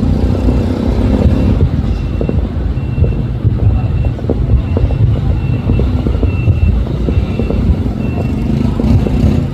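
Steady road-traffic rumble of motor vehicles, with an electronic beep repeating about twice a second like a vehicle's reversing alarm.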